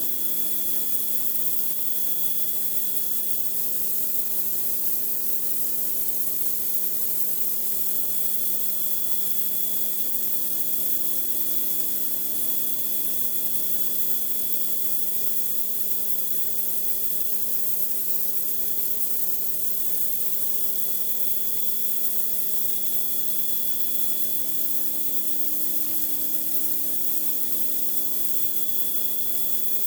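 Pressure washer running steadily with its high-pressure water jet spraying onto a concrete driveway: a constant hiss over a steady machine hum.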